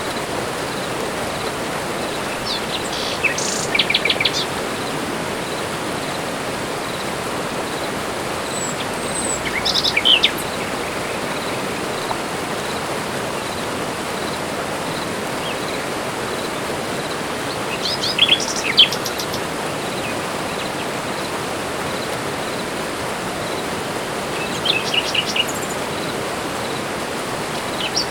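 Tropical forest ambience: birds calling in short, rapid phrases every several seconds over a steady rushing hiss, with a faint regular pulsing, about twice a second, in the background.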